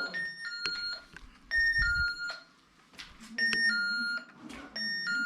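Electronic beeping: short two-note beeps, a higher tone stepping down to a lower one, repeated four or five times at uneven intervals.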